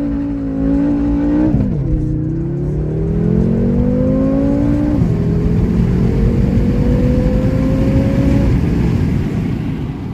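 BMW F10 M5's twin-turbo V8 accelerating hard through the gears: the engine pitch drops at an upshift about one and a half seconds in and again about five seconds in, climbing between shifts, then climbs slowly and fades near the end.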